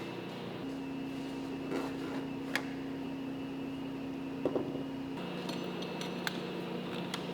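Factory machinery humming steadily, its pitch changing abruptly twice, with a few light metallic clinks.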